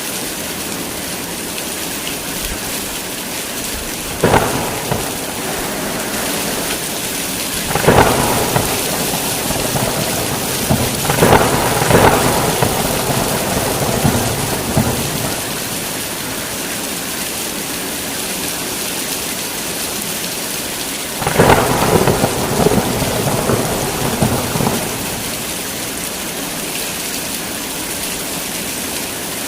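Heavy rain falling in a steady hiss, broken by thunder several times. There is a short crack about four seconds in. Louder claps come around eight and eleven seconds in and rumble on for a few seconds. Another rolling peal comes about two-thirds of the way through.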